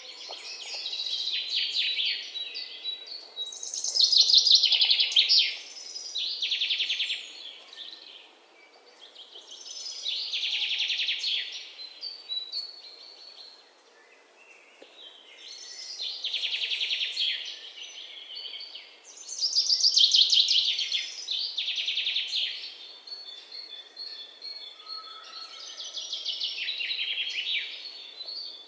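Songbirds singing: fast, high trilled phrases of a second or two each, repeating every few seconds, some overlapping, over faint outdoor background noise.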